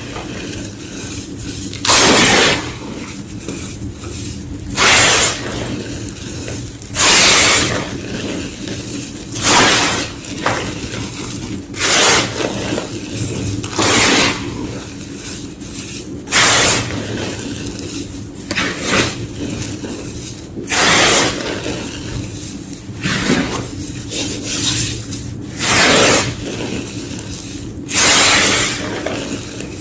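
Soft, powdery white gym chalk being crunched and crushed, one short crunch every two seconds or so, about a dozen in all, over a faint steady low hum.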